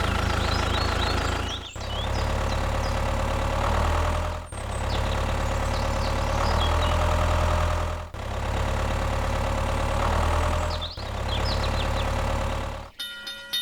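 Tractor engine idling with a steady low drone. It breaks off abruptly and picks up again about every three seconds, as in edited clips, with faint short high chirps above it.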